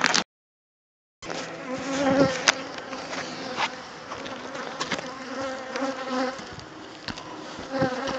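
Many honeybees from an established, disturbed hive buzzing close around the microphone, with pitches wavering as individual bees fly past. Scattered sharp ticks cut through the buzz, and the sound drops out completely for about a second near the start.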